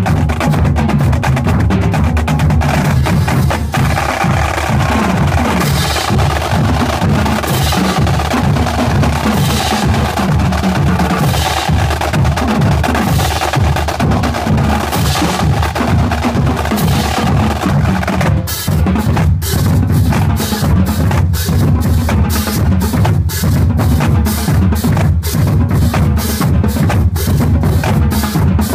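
High school drumline playing, with snare and bass drums in a dense, driving rhythm. About two-thirds of the way through it changes to a sharp, steady run of evenly spaced hits.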